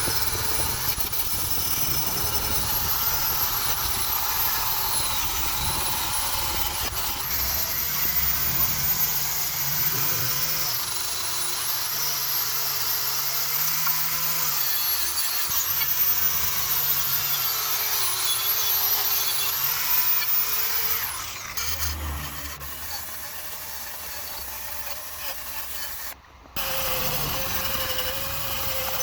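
A power tool running under load, its high motor whine rising and falling in pitch as it works. The sound becomes quieter and changes about three-quarters of the way through, and drops out for a moment near the end.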